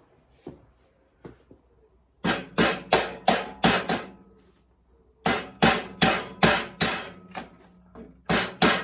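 Lump hammer striking metal in runs of about three blows a second, each blow ringing, with a pause between runs: it is driving the stuck gearbox mounting into place in the engine and chassis. A few lighter taps come first.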